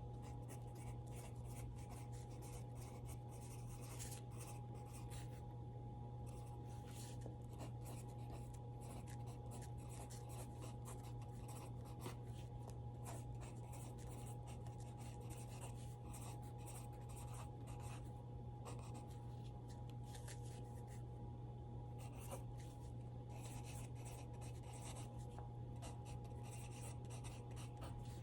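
Pencil scratching on paper in irregular strokes and pauses, over a steady low hum and a faint steady high tone.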